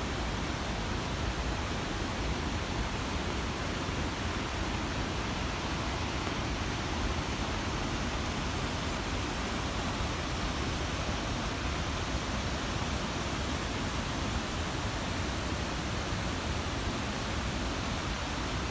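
Steady rush of falling water from Hagoromo Falls, a tall waterfall, heard as an even, unchanging noise.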